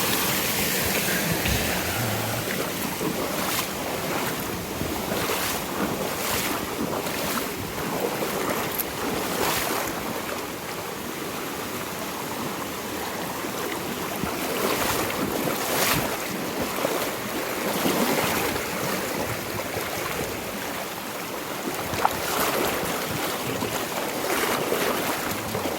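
River water rushing steadily, a constant noisy wash with brief louder surges now and then, from a river running high after heavy rain.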